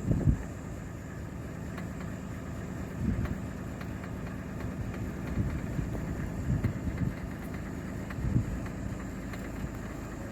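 Safari vehicle's engine running at low speed, a steady low rumble with occasional louder swells and a few faint clicks.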